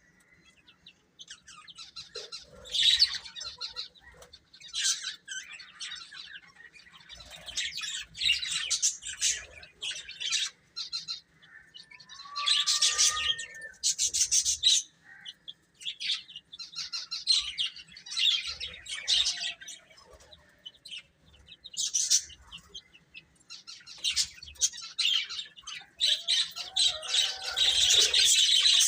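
Baby chicks peeping: repeated bursts of rapid, high chirps with short pauses between, growing nearly continuous and louder near the end.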